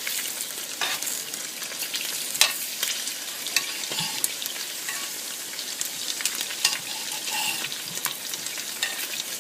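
Olive oil sizzling and crackling under a corn tortilla warming on a hot plate: a steady hiss with scattered sharp pops.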